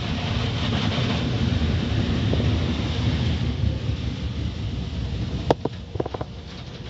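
Car wash machinery running: a steady low rumble with a hiss over it, then a few sharp knocks about five and a half seconds in as the noise eases.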